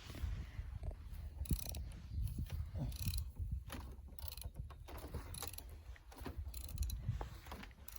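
A jack being pumped to lift a heavy wooden step, with short clicks and creaks about once a second over a low rumble.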